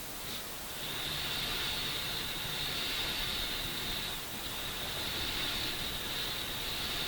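Steady hiss with a brighter high-pitched band that dips briefly twice.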